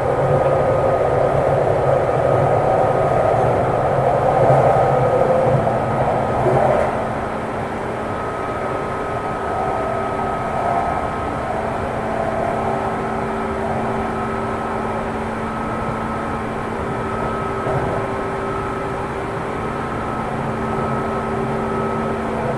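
Running sound inside a JR East 205 series electric train's motor car: wheels rumbling on the rails with the steady whine of its externally fanned traction motors and gears at a constant speed. The rumble is louder for about the first seven seconds, then eases while the whine carries on.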